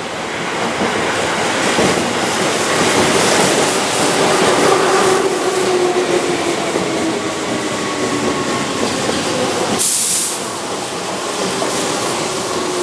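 Keihan 2200 series electric train passing close by on curved track: continuous running noise of wheels on rail that swells over the first few seconds, with a faint steady hum under it. A brief high hiss about ten seconds in.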